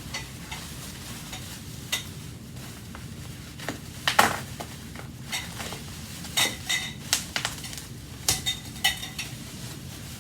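Metal wands of an old Hoover vacuum clinking and knocking as they are handled and lifted out of the box: a scatter of sharp metallic clinks with brief ringing, coming thicker in the second half.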